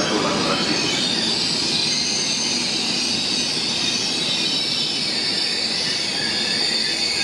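Passenger train running along the platform, its rolling rumble overlaid by a steady high-pitched metallic squeal of wheels and brakes.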